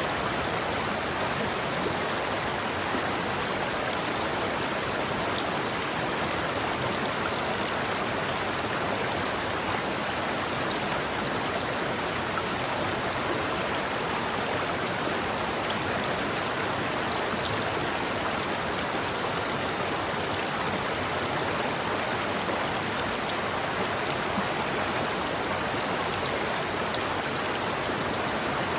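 River water flowing, a steady rushing with no change.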